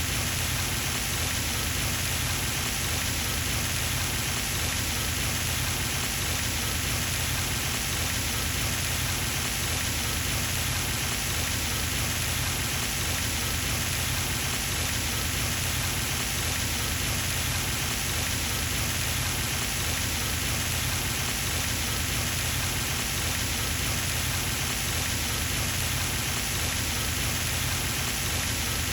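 Pond fountain splashing continuously, its falling water making a steady, even patter like rain on a surface.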